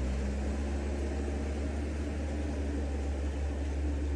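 Steady low rumble of a heavy vehicle's engine running, under a constant hiss.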